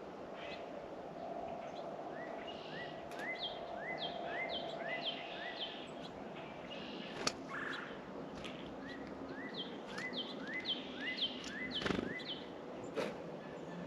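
A songbird at a feeder calling in two runs of short, rising chirps, a few a second. A few sharp knocks are heard between and after the runs, the loudest near the end.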